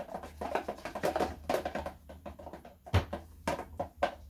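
Homemade slime being stirred and worked in a bowl: irregular wet, sticky clicks, with one sharper knock about three seconds in.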